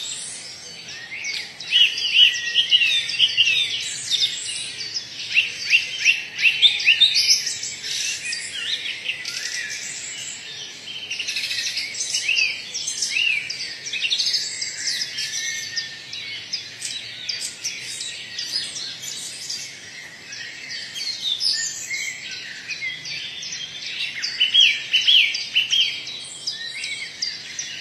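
Many birds chirping and calling at once: a dense chorus of short, high chirps and quick sweeping notes that overlap constantly, busiest in the first third and again near the end.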